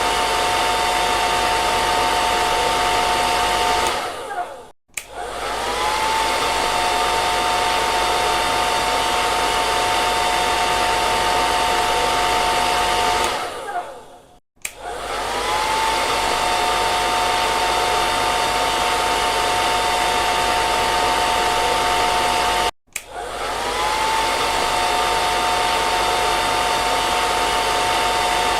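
Hair dryer running steadily: a loud rush of air with a high steady motor whine. Three times it briefly dies away and starts again, the whine rising back to pitch as the motor spins up.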